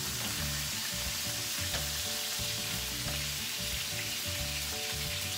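Cod loins frying in hot all-purpose oil in a skillet, with a steady sizzle.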